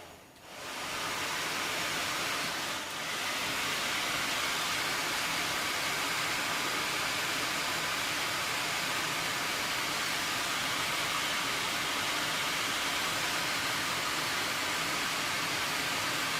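Auxiliary heater blower motor running steadily on the bench with a continuous airy whirr, spinning freely after being freed up with oil and grease. It starts about half a second in and falters briefly near three seconds.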